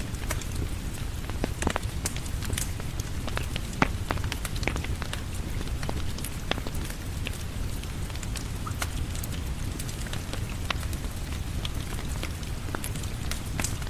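Steady rain mixed with a crackling fireplace: a constant low rush of rain under frequent sharp pops and clicks.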